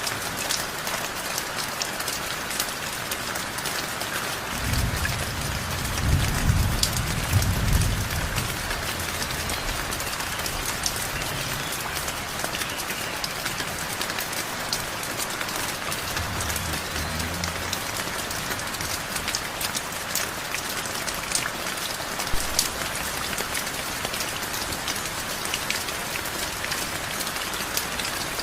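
Heavy rain falling steadily, with many sharp drip ticks over an even hiss. A low rumble swells and fades about five to eight seconds in, and a fainter one comes around sixteen seconds in.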